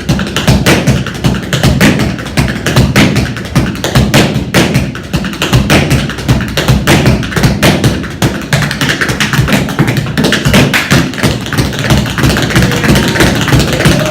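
Solo tap dancing: fast, dense, irregular runs of tap strikes from tap-fitted shoes on a floor, loud and unbroken.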